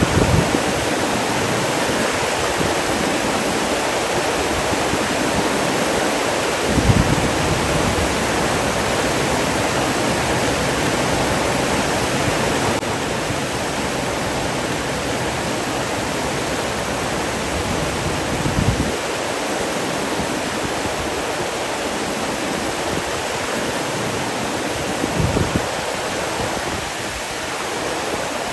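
Steady rushing of flowing water, like a waterfall or fast stream. A few brief, louder low thumps break in now and then.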